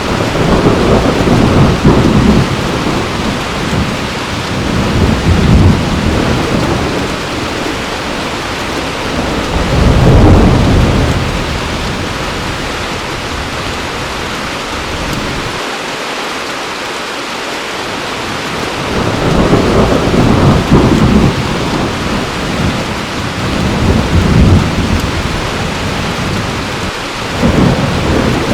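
Heavy rain falling steadily with repeated rolls of thunder: rumbles swell in the first few seconds, around ten seconds in, and several times in the last third.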